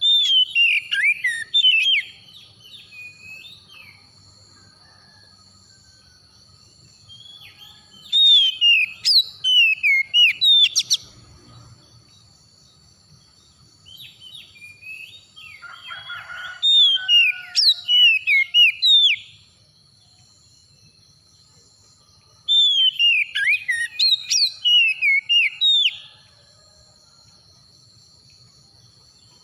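Oriental magpie-robin (kacer) singing in four bouts of a few seconds each, made of rapid, sweeping whistled phrases, with pauses of several seconds between bouts.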